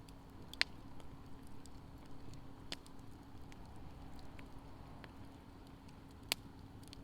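Wood fire crackling in a fire pit: scattered small pops and ticks, with two sharper, louder snaps, one about half a second in and one near the end.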